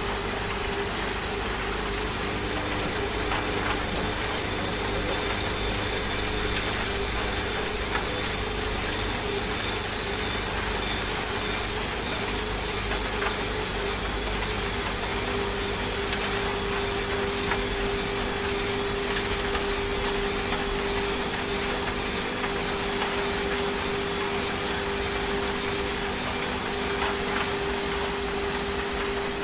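Washing machine running with a steady motor hum, layered with the even hiss of falling rain.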